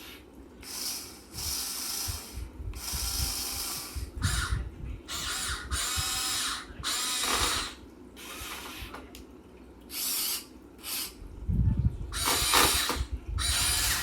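Electric gear motors of a Huina 1580 all-metal RC excavator whirring in short stop-start bursts, a dozen or so, as its controls are worked, with a few low knocks in between.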